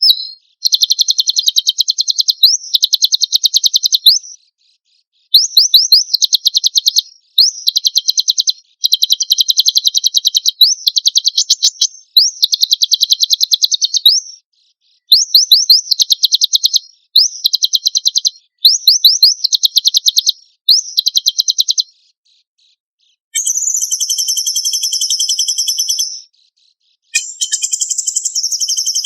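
Songbird masteran of 'tembakan besetan' song: rapid, high, piercing chirp phrases in bursts of one to two seconds, separated by short gaps. About two-thirds of the way in it changes to a steady, buzzing high trill.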